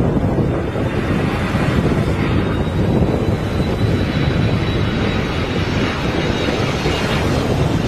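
Airplane engines running loud and steady during a landing in strong wind, a dense rushing noise with a faint high whine through the middle.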